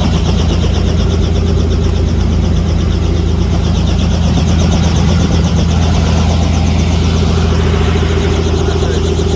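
Helicopter engine and rotor noise, a steady loud drone with a low hum, heard from inside the cabin.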